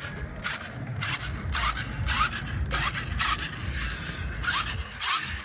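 Toy RC rock crawler truck driving over rough ground, giving repeated scrapes, each with a short rising squeak, about two a second, over a low rumble.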